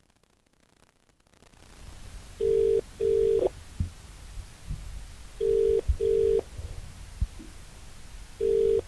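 Telephone ringback tone heard down the line: a double ring, two short steady tones in quick succession, repeating three times about every three seconds over a low hiss. A few faint low thumps fall between the rings, and the first second and a half is near silence.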